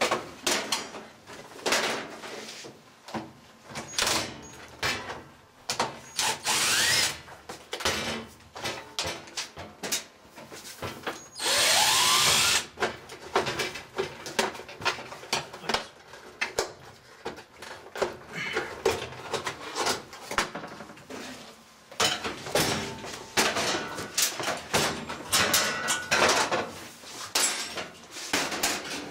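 Many clanks, knocks and rattles of tools and metal panels as a Kenmore 90 series washing machine is taken apart, with a power driver whirring briefly twice, about seven and twelve seconds in, its pitch rising as it spins up.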